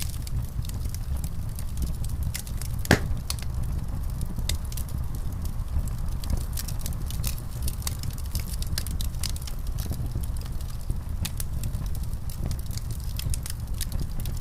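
Fireplace fire burning with a steady low rumble and scattered crackles and pops, one louder pop about three seconds in.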